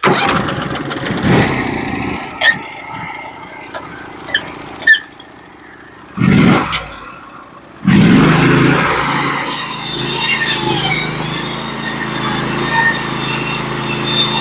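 Norwood HD36v2 sawmill's gas engine starting up: loud bursts in the first seven seconds, then from about eight seconds in it catches and runs steadily.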